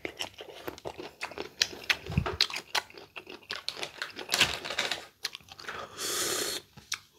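Close-up chewing of crisp, unripe green mango, with many sharp crunches and wet mouth sounds. A short hiss comes about six seconds in.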